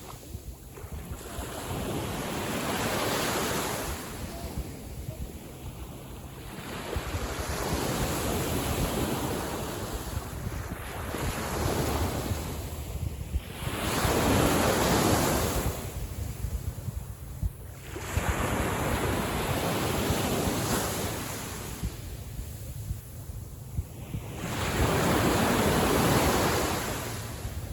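Small sea waves washing onto the shore, the surf noise swelling and falling back about every five to six seconds, with wind rumbling on the microphone underneath.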